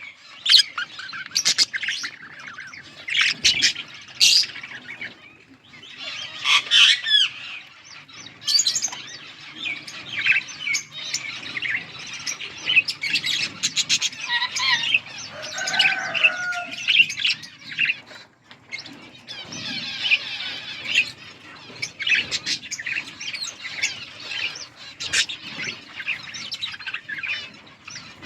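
Hagoromo budgerigars chattering: a steady stream of rapid chirps, warbles and squawks with a short lull about two-thirds of the way through.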